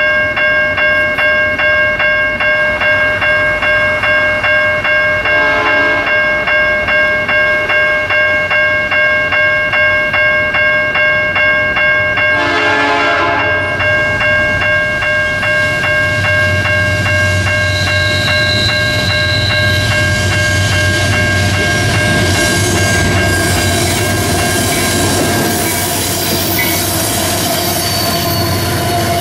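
A level-crossing warning signal rings in rapid pulses, about three a second, while an approaching train sounds its horn twice, about 5 and 12 seconds in. Then the empty iron-ore train's AC44i diesel-electric locomotives rumble closer and pass, with a brief high wheel squeal about 18 seconds in and wheel noise building near the end.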